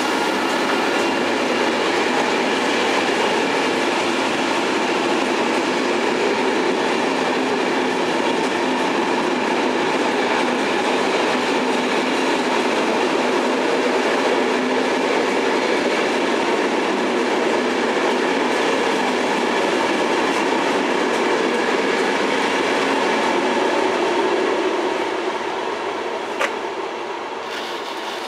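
Electric passenger train, a BB 26000 locomotive hauling Corail coaches, rolling past along the platform: a steady loud rush of wheels on rail that fades a few seconds before the end as the tail of the train moves away. A single sharp click sounds near the end.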